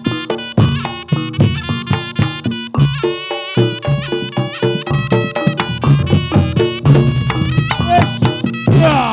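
Reog Ponorogo gamelan music: a slompret, a nasal double-reed shawm, plays a bending melody over drums and gong strokes in a steady beat.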